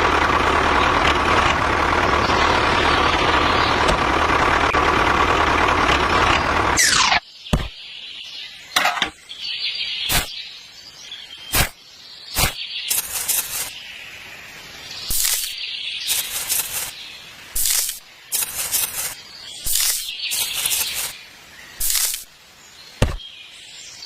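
A small motor runs steadily with a constant whine for about seven seconds, then cuts out with a quick falling sweep. After that come scattered sharp clicks, knocks and short scraping bursts of hand work and handling.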